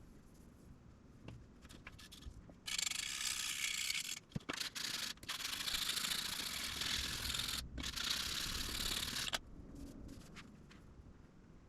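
Sandpaper rubbed back and forth along the wooden fingerboard of a fretless Fender Precision Bass, hand-sanding it level: a dry rasping that starts about three seconds in, breaks off briefly a few times between strokes, and stops a couple of seconds before the end.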